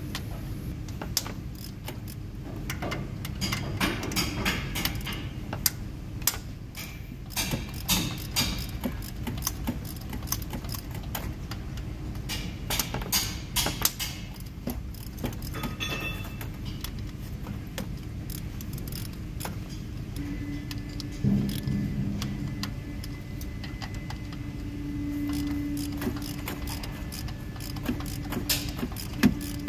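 Metal tools and engine parts clinking and rattling in irregular bursts as the rocker arms are loosened and the pushrods checked on a GMC Yukon's V8, a search for a bent pushrod behind an engine misfire.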